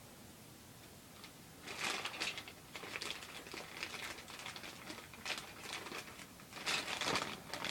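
Plastic bags of model-kit parts crinkling as they are handled, in irregular bursts starting about two seconds in and loudest near the end.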